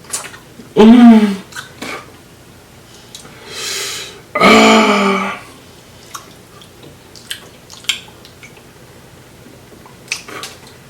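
Close-up eating sounds from hand-picking snow crab and prawns: scattered small clicks, cracks and wet mouth sounds. A man's two short wordless vocal sounds come about a second in and, louder, around the middle.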